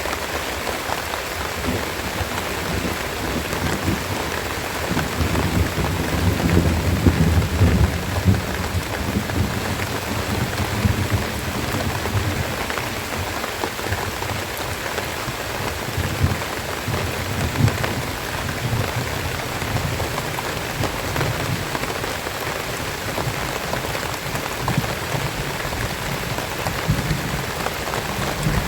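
Steady rain falling, an even hiss of drops, with low rumbling swells about a quarter of the way in, briefly again around the middle, and near the end.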